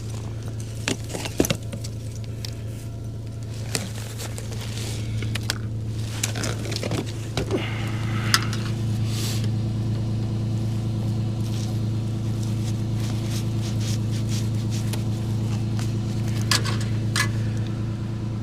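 A vehicle engine idling, a steady low hum that fills out with more overtones about seven seconds in. Scattered sharp clicks and clinks of small objects being handled sound over it.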